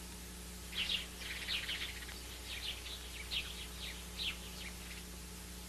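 Small birds chirping: a run of short, quick falling chirps that fade out about three-quarters of the way through.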